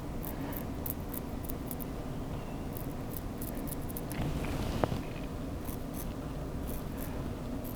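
Straight razor with a half blade scraping stubble from the face in short strokes: many brief scratchy clicks, with one sharper click about five seconds in, over a steady low room hum.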